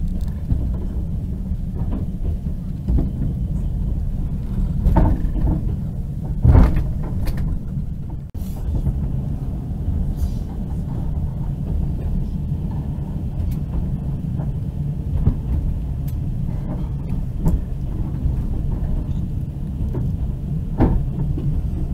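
Steady low rumble of a moving passenger train heard from inside the carriage, with a few sharp knocks along the way.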